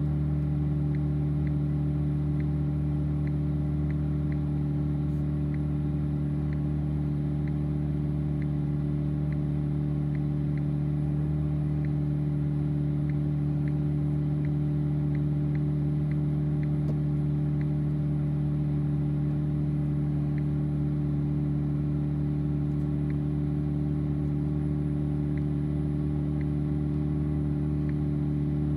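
BMW M4 Competition's twin-turbo 3.0-litre inline-six idling steadily, its exhaust holding an even low drone with no revs.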